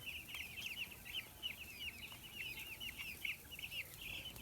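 A flock of 11-day-old broiler chicks peeping continuously, many short falling chirps overlapping.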